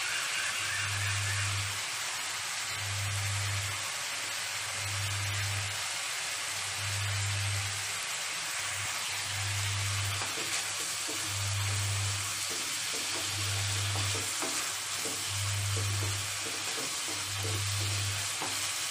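Prawns and chopped garlic sizzling in olive oil and butter in a frying pan, stirred with a spatula as the pan juices cook down. Under the sizzle, a low hum pulses on and off about every two seconds.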